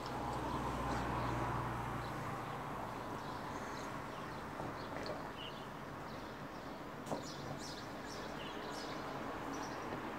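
Quiet background with faint, scattered bird chirps and a low hum in the first couple of seconds; a single soft click about seven seconds in.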